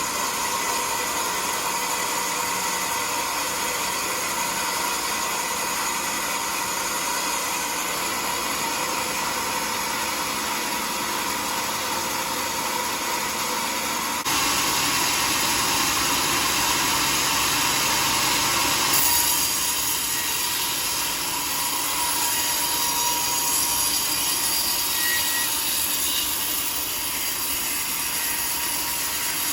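Powered sawmill blade cutting through a teak log, a continuous sawing noise that steps up abruptly about halfway through and shifts again a few seconds later.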